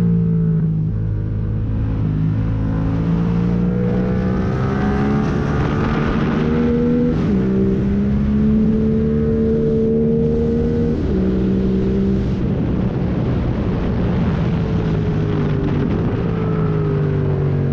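Yamaha MT-07's parallel-twin engine through a full MIVV exhaust with no catalytic converter and no dB killer, ridden hard. It pulls up in pitch with quick upshifts about 7 and 11 seconds in, then winds down as the bike slows near the end.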